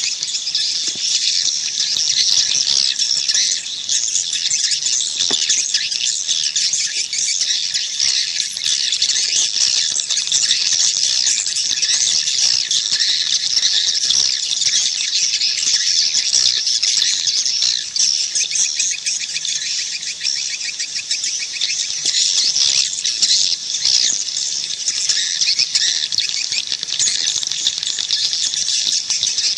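Edible-nest swiftlets twittering in a dense, unbroken chorus of rapid high-pitched chirps. This is a swiftlet 'call' recording, the sound played to lure swiftlets into a nesting house.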